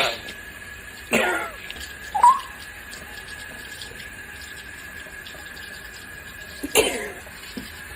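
A parrot giving a few short calls with sweeping pitch: one at the start, two close together a second or two in, and another near the end. A faint steady high tone runs underneath.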